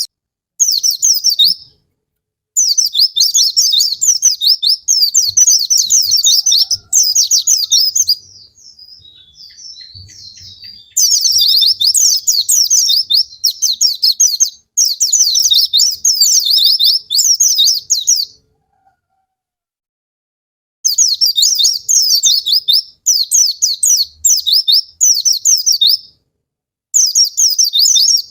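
White-eye (pleci) song: long, fast, high-pitched twittering phrases in bouts of a few seconds that stop abruptly, with a softer scatter of notes in one of the breaks.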